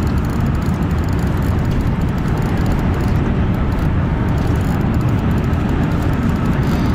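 Strong wind buffeting the microphone: a loud, steady low rumbling noise with no distinct events.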